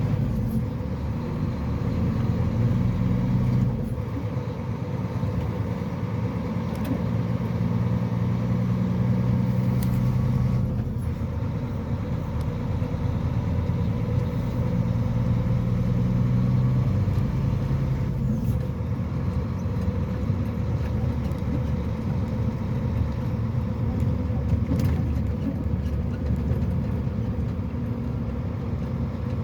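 Motor vehicle engine running with road noise, its low note shifting up and down every few seconds as the speed changes.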